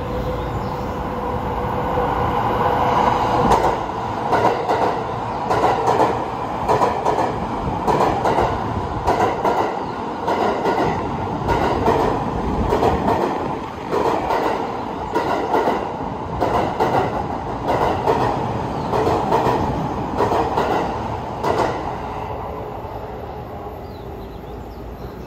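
A JR E231-1000 series electric commuter train passing through a station without stopping, its wheels clattering over rail joints. The clicks come in a steady, evenly spaced run of click groups as car after car goes by, then fade near the end as the tail passes.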